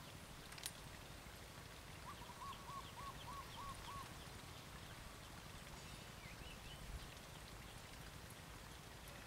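Quiet open-air ambience with a faint steady hiss. A single sharp click comes shortly after the start. A bird calls a quick run of about seven short, evenly spaced notes a couple of seconds in, and gives a brief chirp a few seconds later.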